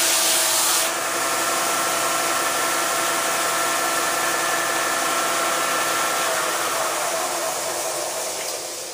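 Electric sander running steadily, with a harsher rasp in the first second as wood is pressed against it. Near the end it is switched off and winds down, its hum falling in pitch and fading.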